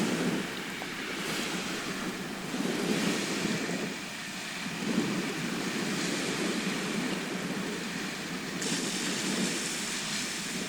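Sea surf washing onto a shore: a continuous rushing that swells and eases every couple of seconds.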